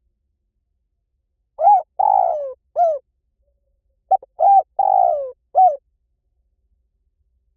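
Spotted dove cooing, as in a lure recording for calling in doves. Two phrases come about a second and a half and four seconds in. Each is short notes around a longer falling, rolling coo, with dead silence between the phrases.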